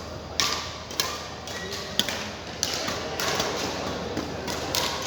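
Badminton rackets striking a shuttlecock in a rally: a series of sharp hits, roughly one a second.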